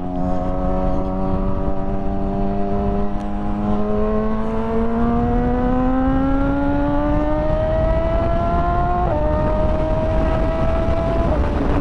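Motorcycle engine accelerating under load, its pitch rising steadily for about nine seconds, then dipping briefly at an upshift and holding steady, over constant wind and road noise.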